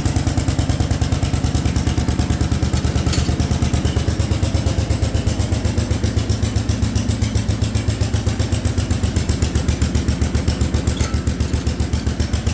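Allis-Chalmers B210 garden tractor engine running steadily with its PTO engaged, an even, rapid firing pulse throughout. The engine runs smoothly.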